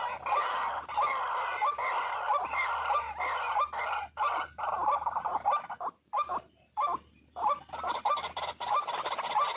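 White-breasted waterhens calling: a dense run of short, clucking 'kwak' notes repeated several times a second, breaking off briefly a little past the middle.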